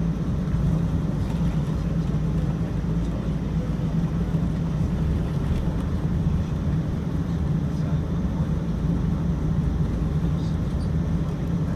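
Steady low rumble of the cabin noise inside a Boeing 777-200ER on the ground shortly before takeoff, with engines and air conditioning making an even drone.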